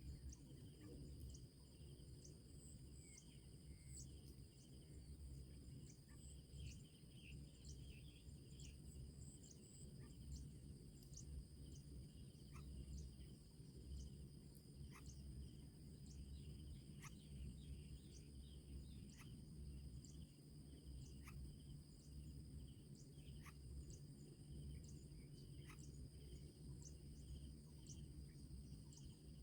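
Faint insect chorus: a steady high-pitched drone with short ticks about once a second, over a low rumble.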